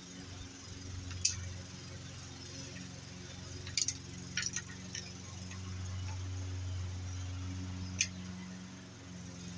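Small metal parts and hand tools clinking sharply a few times, over the steady hum of a lawnmower engine running in the background, which swells in the middle and then eases off.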